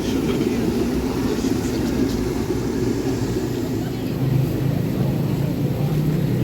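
Steady low rumble of street traffic, with a deeper steady hum joining about four seconds in.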